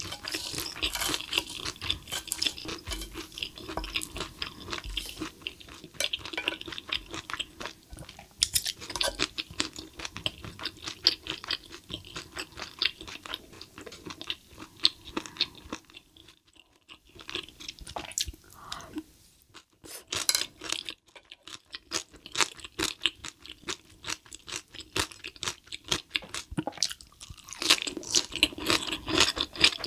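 Close-miked chewing of spicy stir-fried cuttlefish and a steamed cabbage wrap: a dense run of wet, crunchy mouth sounds that falls quiet twice for a moment around the middle.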